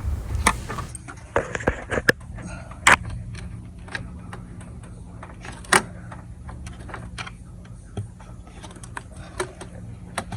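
Scattered light clicks and clinks of hand tools and engine parts as a hose is worked off the engine's intake, with two sharper knocks about three and six seconds in.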